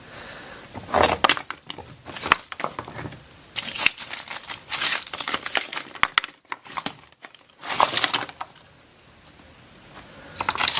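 Digging and scraping through loose dirt and debris in short, irregular bursts, with a quieter pause near the end. It is the sound of hunting for a buried metal-detector target.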